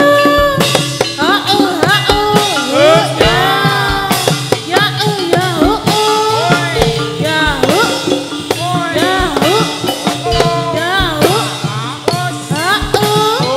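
Live Javanese gedruk dance music: drums beat steadily under a melody that keeps sliding up and down in pitch.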